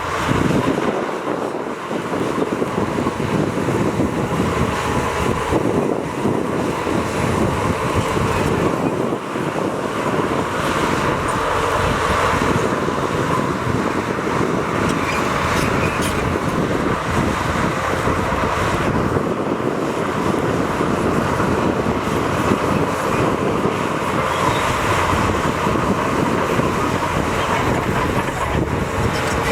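Heavy earthmoving machinery running steadily, its diesel engine and mechanical din continuous and loud.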